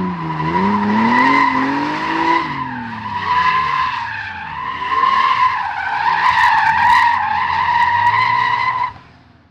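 BMW E30's swapped-in M54B30 3.0-litre straight-six revving up and down under load while the rear tyres squeal in a steady high-pitched drift. The sound stops abruptly near the end.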